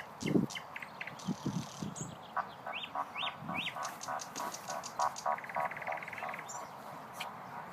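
Nightingale singing: a few rising whistles, then a run of repeated pulsed notes and a fast rattling trill. A few short low calls sound under it in the first two seconds.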